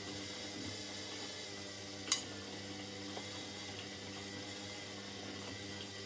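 Indesit 71252 washing machine running mid-cycle, a steady motor hum under a hiss of water. A single sharp click comes about two seconds in.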